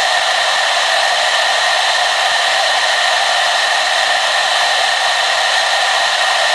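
Hair dryer running steadily: a constant airy rush with a steady high whine and no change in speed.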